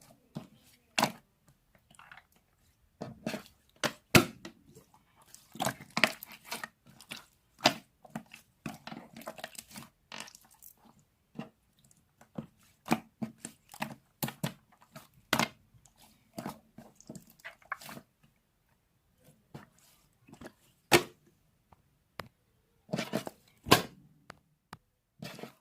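Close-miked ice in a cold Powerade drink: irregular sharp clicks and crunchy crackles, some loud, with short quiet gaps between them.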